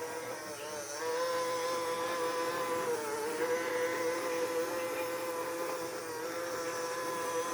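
Robot vacuum cleaner running, a steady motor hum that grows louder about a second in and dips briefly in pitch near the three-second mark.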